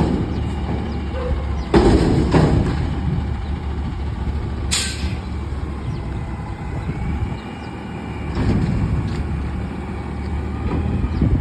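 Front-load garbage truck running steadily, with two loud clanks about two seconds in and a short sharp hiss of air just under five seconds in.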